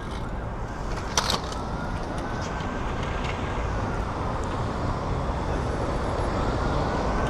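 Steady road traffic noise from passing cars, growing slowly louder, with a faint high whine that rises and falls twice. A single sharp click sounds about a second in.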